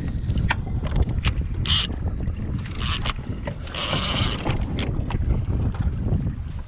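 Wind rumbling on the microphone aboard a boat at sea, with several short hissing bursts, the longest about four seconds in.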